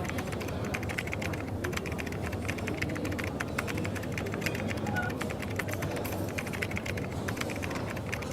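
Rapid typing on a keyboard, a dense run of quick clicks, over coffee shop background noise with a steady low hum.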